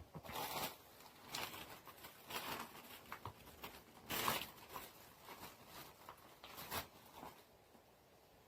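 Accessory packaging being handled and opened: a run of short rustling, tearing bursts, the loudest about four seconds in, stopping a little after seven seconds.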